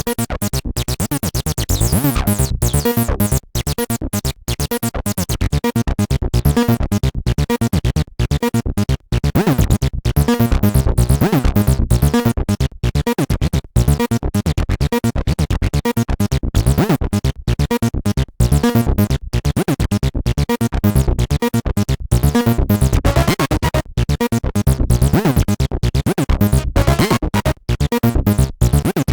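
Behringer TD-3-MO, a modded TB-303-style analogue bass synth, playing a fast repeating sequence of short notes from an 8-step sequencer, its resonant filter sweeping up and down under modulation.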